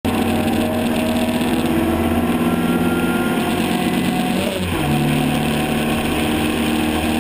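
Race car engine running hard at speed, heard onboard from the open cockpit with wind rush. About four and a half seconds in, the engine note dips briefly and then settles at a lower pitch.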